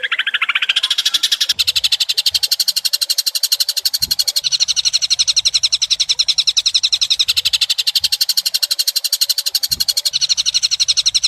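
A high, buzzy animal trill made of rapid even pulses, about ten a second, held without a break. Its tone shifts back and forth every few seconds, as in a looped lure recording.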